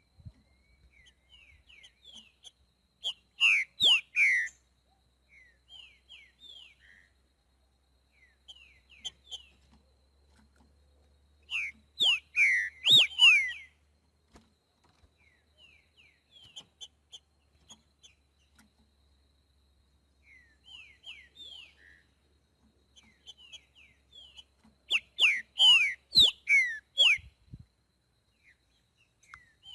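Green-winged saltator (trinca-ferro) of the boiadeiro song type singing: three loud phrases of quick, sweeping whistled notes about ten seconds apart, with softer short chirps in between.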